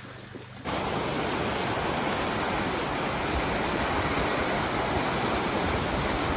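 Loud, steady rush of fast-flowing floodwater, starting abruptly under a second in after a quieter stretch with a faint low hum.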